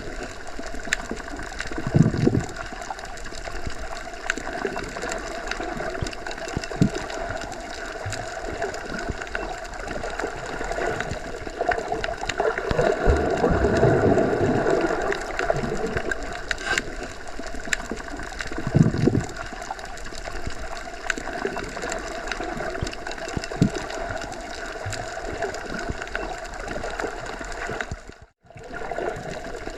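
Underwater ambience heard submerged in a pool or lake: a steady, muffled water noise with a few low thumps and a swell in the middle. The sound cuts out for a moment near the end.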